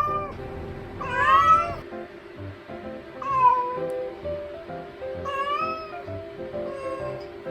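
A cat meowing repeatedly at night, about four drawn-out meows a couple of seconds apart, each rising and then falling in pitch; the middle two are the loudest and the last is faint. This is a newly adopted former stray's night-time crying.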